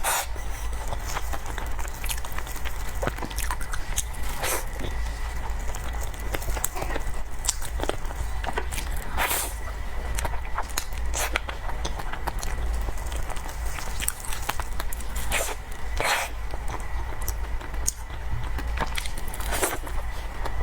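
Close-miked mouth sounds of someone eating cake: chewing, lip smacks and scattered short wet clicks, over a steady low hum.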